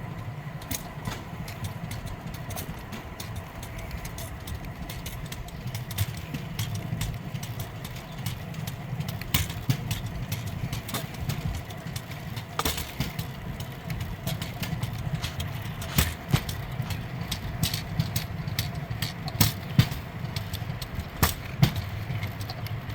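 Steel wheels of a pedal-powered rail bike rolling along railway track: a steady low rumble with irregular sharp clicks and knocks as the wheels cross the rail joints, the clicks coming more often and louder in the second half.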